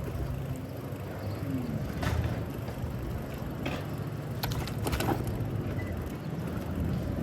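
City street traffic with a motor vehicle's engine running steadily, heard while riding a bicycle. A few sharp clicks and rattles come through about two seconds in and again around the middle.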